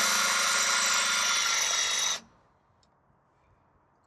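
Power drill running steadily while drilling out a shear-pin hole to take a slightly larger bolt, then cutting off suddenly about two seconds in.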